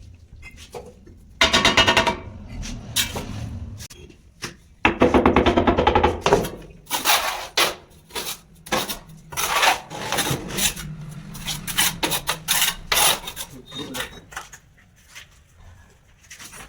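A voice twice, then a fast, irregular run of knocks and scrapes from hand building work on formwork, fading out near the end.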